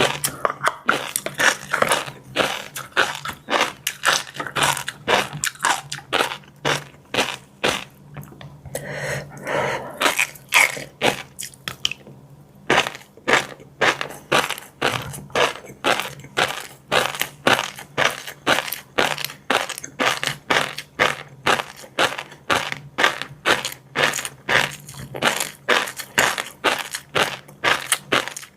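Close-miked chewing of fish roe and crunchy seafood: steady, loud crunching at about three chews a second, with a couple of short pauses.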